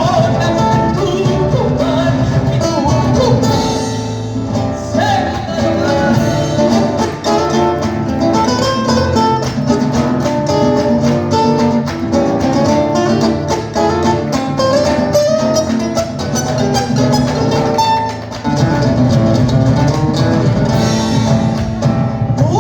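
Live Latin-American music played over a PA system, with a woman singing over guitar and a steady bass and rhythm backing.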